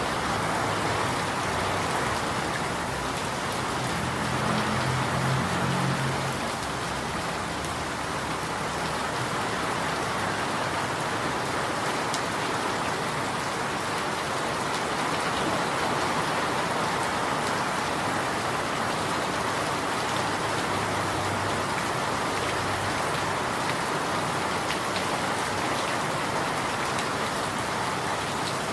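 Steady rain falling in an even, continuous hiss. A faint low hum rises briefly about four seconds in.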